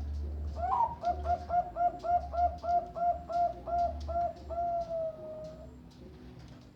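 Zebra dove (perkutut Bangkok) cooing: a rapid run of about fifteen short notes, roughly four a second, ending in one long, slightly falling note.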